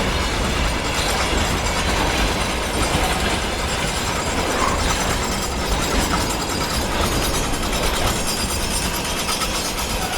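A train rolling past on the rails, a steady loud rumble with fine rapid clicking from the wheels.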